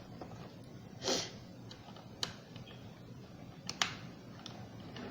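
Scattered light clicks and taps of a screwdriver and hands on a Roomba's plastic housing as work starts on the second wheel module, with a short hissing rush about a second in.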